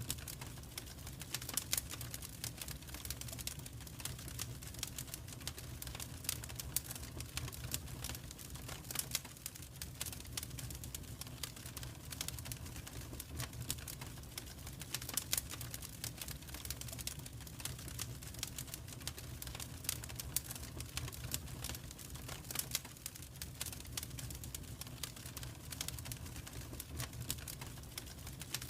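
Wood fire crackling in a fireplace: irregular sharp crackles and pops over a steady low rumble of the flames.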